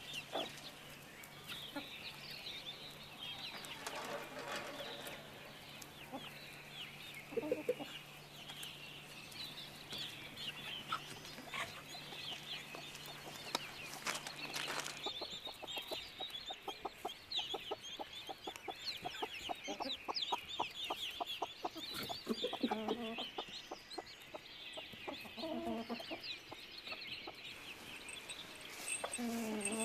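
Chickens clucking now and then, a handful of separate calls, over steady chirping of small birds.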